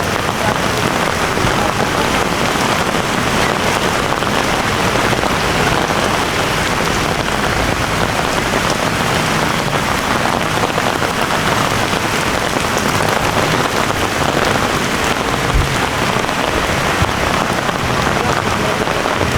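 Heavy rain pouring down and pattering on surfaces, a steady dense hiss.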